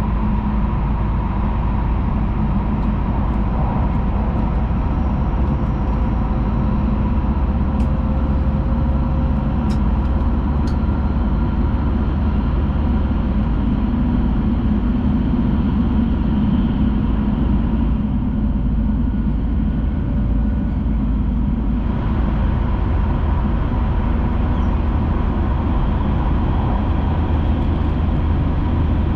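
Hayabusa Shinkansen running at speed, heard from inside the passenger cabin as a steady low rumble and rushing noise with a faint whine. A few light ticks come about a third of the way in, and the upper hiss drops away for a few seconds about two thirds through.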